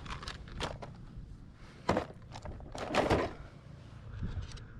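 A few hollow knocks and thunks on the plastic hull of a sit-on-top fishing kayak, with a sharp one about two seconds in and a longer, louder one about a second later.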